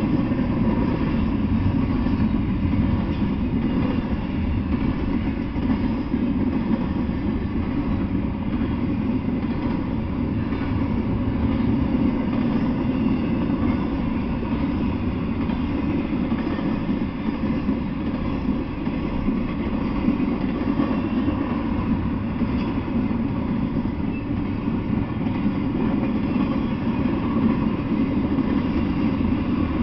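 Double-stack intermodal freight train rolling past: a steady, even rumble of steel wheels on the rails with no horn.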